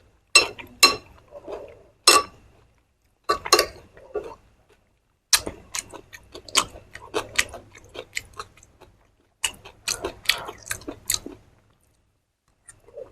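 A person eating close to the microphone, chewing crisp food in bursts of crunchy bites with short pauses between. The crunching stops about eleven seconds in.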